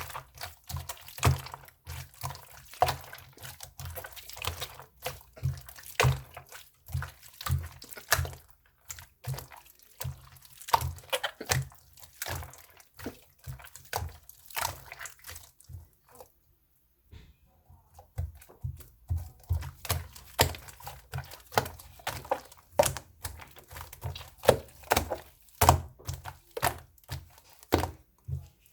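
Slime being squished and pressed by hand: a quick, irregular run of wet clicks and pops, with a short pause a little past the middle.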